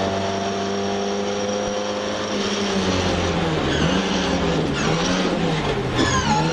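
Ford Escort RS2000 Mk2 rally car's four-cylinder engine heard from inside the cabin, held at steady high revs and then falling and rising several times over the last few seconds as the car brakes hard and changes down.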